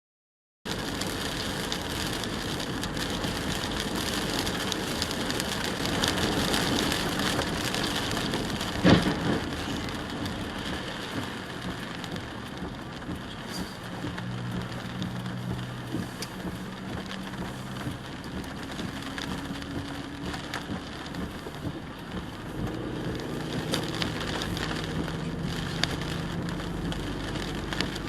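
Steady rain-like hiss of a car driving on a wet road, with one sharp, loud bang about nine seconds in.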